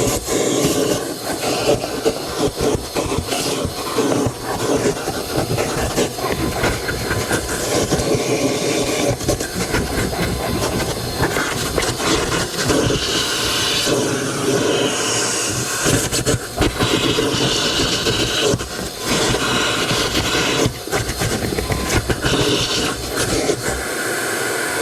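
Car detailing cleaning work: uneven rubbing and scrubbing on the vehicle, with frequent small knocks and clicks and a hiss.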